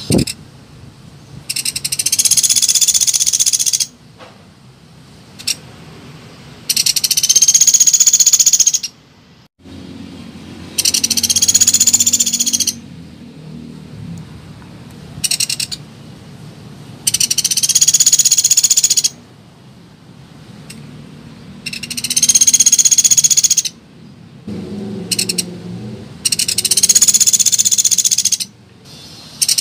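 Common flameback woodpecker giving its fast rattling trill call, about two seconds long and high-pitched, repeated six times at roughly five-second gaps.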